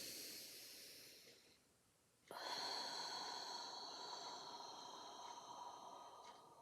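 A deep breath: a soft inhale through the nose in the first second and a half, a short pause, then a long audible exhale starting a little after two seconds in, louder than the inhale and slowly fading over about four seconds.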